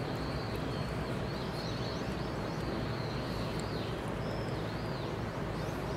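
Small birds chirping high-pitched, a quick run of short rising-and-falling chirps through the middle, over a steady low background rumble.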